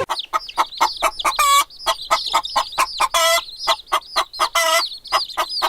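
Chickens clucking in a fast run of short calls, with three longer calls among them.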